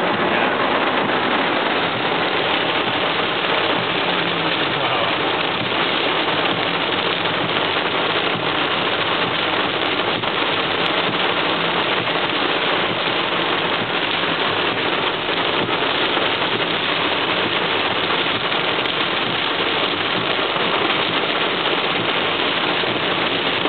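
Rain on a car's roof and windscreen, heard from inside the moving car as a steady, dense hiss.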